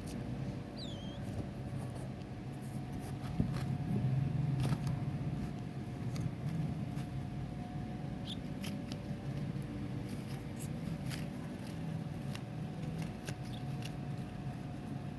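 Cockatiel making scattered beak clicks and ticks with a few brief high chirps that slide down in pitch, over a steady low hum.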